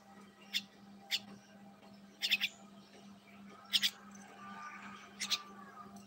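A small caged bird chirping: short high chirps every second or so, some doubled, over a steady low hum.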